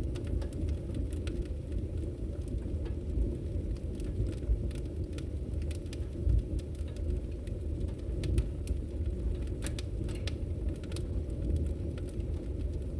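Wood fire burning in a fireplace: a steady low rumble of flame with frequent irregular crackles and pops, a few sharper than the rest.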